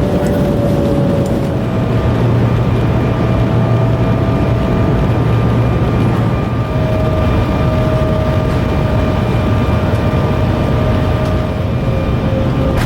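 Jet airliner engine noise: a steady, loud rumble with faint whining tones that drift slightly in pitch.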